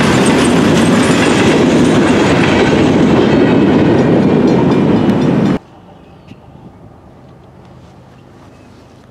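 Freight train of Norfolk Southern covered hopper cars rolling past close by: a loud, steady rumble of wheels on rail with clickety-clack from the rail joints. It cuts off suddenly a little past halfway, leaving only faint background.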